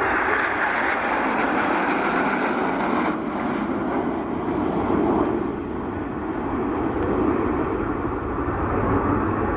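Northrop F-5E Tiger II jets flying a display, a steady jet roar with no distinct tone. The sound deepens from about four seconds in.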